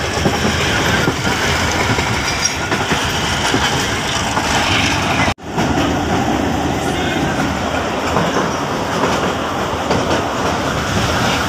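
Passenger train running on the rails, heard from inside the carriage: a loud, steady rumble and rattle with a clickety-clack from the wheels. The sound cuts out for an instant about five seconds in.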